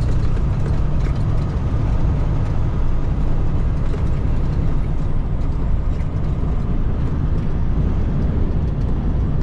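Cat 3406E diesel engine of a Freightliner FLD120 running steadily while driving, heard from inside the cab as an even low drone with road noise.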